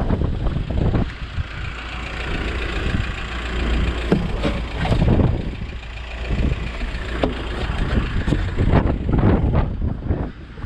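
Strong wind buffeting the microphone: a constant low rumble with irregular gusty surges.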